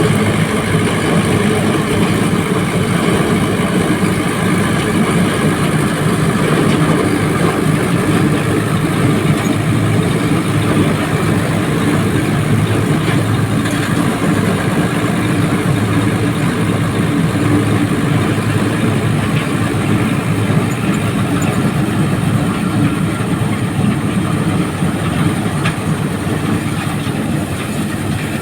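Tractor engine driving a thresher that chops straw into bhusa: a loud, steady machine drone with no break.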